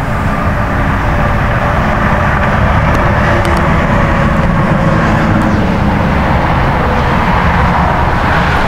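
A road vehicle's engine running loud and close, with tyre and traffic noise, building slightly in the first second and then holding steady.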